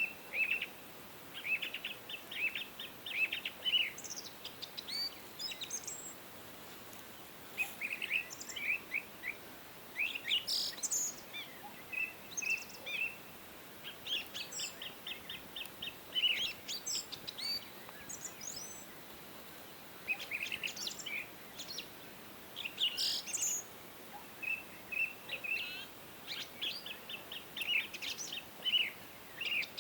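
Several songbirds singing: bursts of quick chirps and trills, phrases coming every few seconds with short pauses between, over a faint steady hiss.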